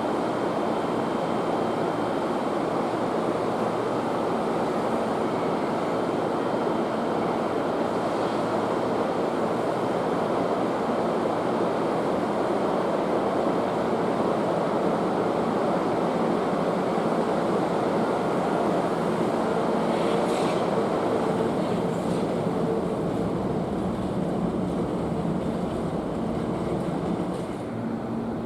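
Hankyu Kyoto Line electric train running: a steady rumble of wheels on the rails that eases slightly near the end.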